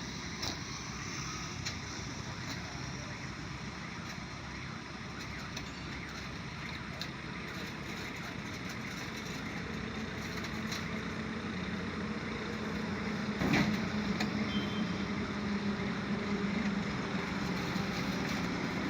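A truck engine running amid steady roadway noise, its low hum growing stronger in the second half, with one sharp knock a little past halfway.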